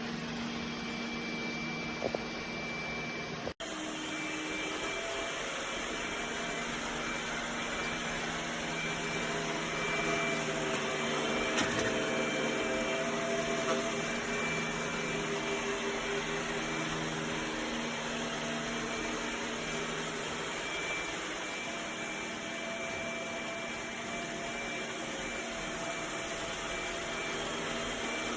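iRobot Roomba Combo j7+ robot vacuum running steadily: a motor hum with a steady whine. It drops out for an instant about three and a half seconds in.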